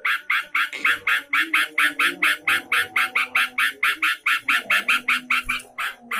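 Yellow-vented bulbul (trucukan) giving a fast, even chatter of short, sharp notes, about six a second, with fainter lower tones underneath.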